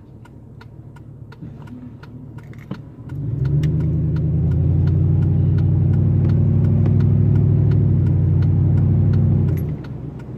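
Truck engine and exhaust, quiet at first, then loud under hard throttle for about six seconds holding a steady note, before dropping back as the throttle is let off.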